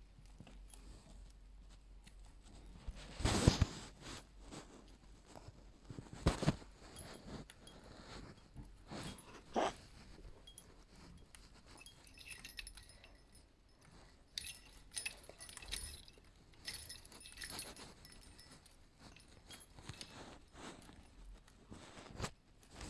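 Pet budgies moving about their cage: scattered small clicks, knocks and rattles, with a few louder knocks in the first half and faint high-pitched chirping in the middle.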